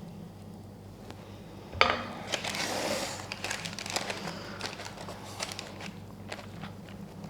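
A knock about two seconds in, then a utensil scraping and tapping through thick brownie batter as it is spread across a baking tin, with scattered clicks.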